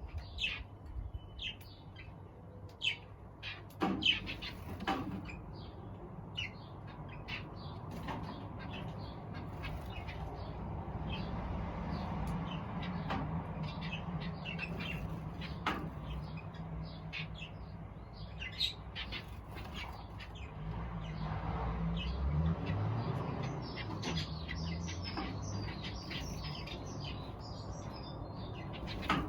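Small aviary birds chirping: many short, high calls overlapping, denser near the end. A low rumble runs underneath and grows louder in the second half.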